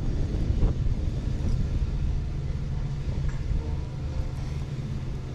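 Wood fire burning hard in a homemade stainless-steel fire pit: a steady low rumble with a few faint crackles.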